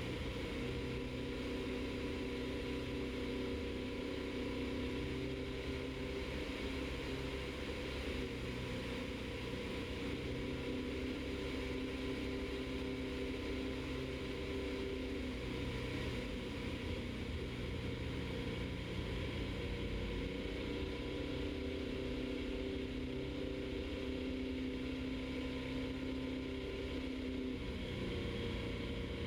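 Piper Super Cub floatplane's piston engine and propeller droning steadily in flight, heard from inside the cockpit.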